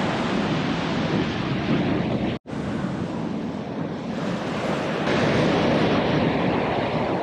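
Sea surf washing on a beach, heard as a steady roar, with wind buffeting the microphone. The sound cuts out for a moment about two and a half seconds in.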